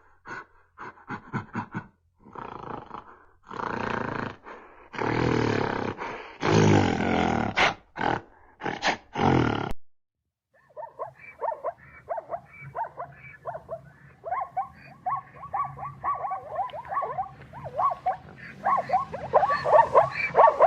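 Animal calls: a run of harsh, roar-like bursts, then after a brief gap about ten seconds in, a rapid series of short pitched calls.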